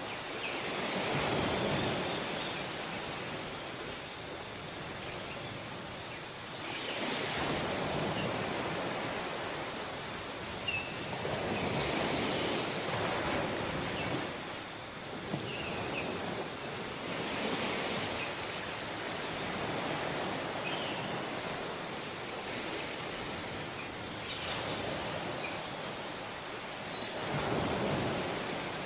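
Waves breaking on a tropical beach, the surf swelling and falling back about every five seconds. A faint steady high tone and a few short chirps run underneath.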